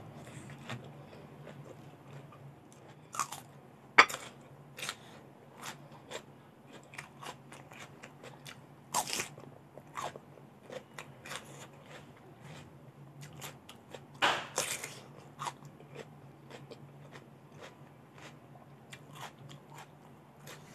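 Close-up crunchy bites and chewing of raw vegetables, crisp lettuce leaf and cucumber, in irregular sharp crunches, the loudest about four seconds in and more clusters around nine and fourteen seconds.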